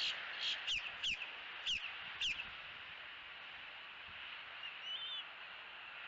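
A bird giving about six short chirps that fall in pitch over the first two and a half seconds, then a faint wavering call near the end, over a steady outdoor hiss.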